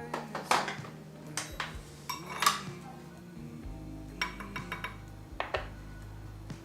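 Dishes and metal utensils knocking and clinking in a kitchen: a string of separate knocks and ringing clinks, with a quick run of clinks a little past halfway, over soft background music.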